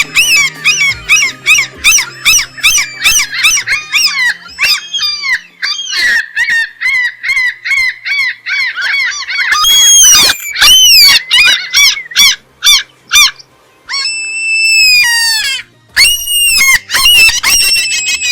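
Gulls calling: quick runs of short, arching squawks, several a second, with a stretch of longer drawn-out calls in the middle and brief gaps between runs.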